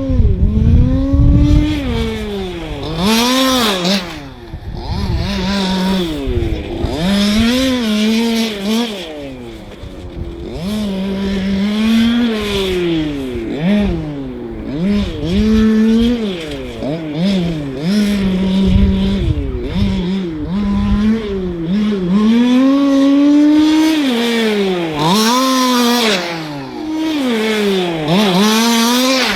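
Radio-controlled racing cars running laps, their small motors buzzing and repeatedly rising and falling in pitch as they speed up and slow for the corners, with several motors overlapping.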